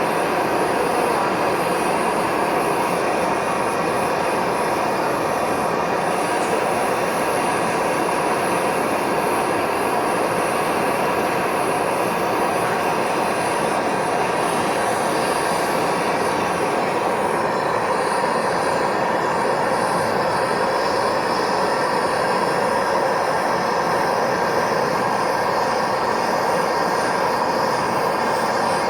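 Gas brazing torch flame burning with a loud, steady hiss while it heats a copper pipe joint on aluminium pipe for brazing.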